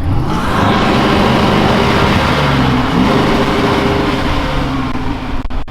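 A car engine revving up hard and held at high revs, dipping briefly about halfway through before climbing again. It is loud, with a break just before the end.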